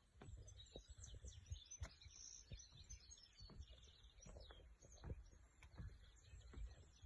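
Faint birdsong: many short high chirps and twitters from several small birds, over a low rumble with frequent soft thumps.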